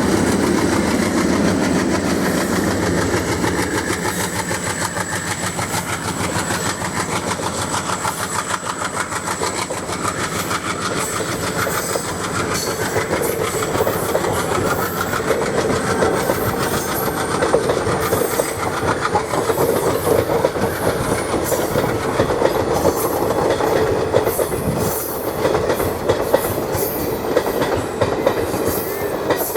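Express train coaches rolling past at speed, wheels clicking over the rail joints in a steady clickety-clack. The clicks grow sharper and louder in the last third. In the first few seconds a low diesel locomotive rumble fades away.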